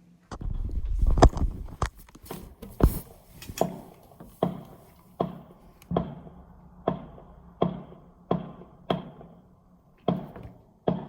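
Fireworks going off: a burst of rapid cracks over a low rumble, then a run of single bangs about one every three-quarters of a second, each with a short echoing tail.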